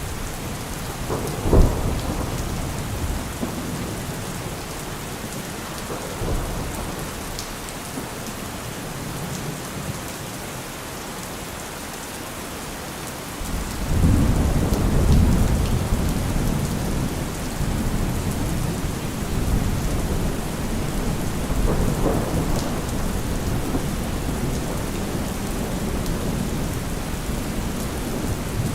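Steady rain with thunder: a sharp thunderclap about a second and a half in, then a long low rumble of thunder rolling in about halfway through, with another rumble later on.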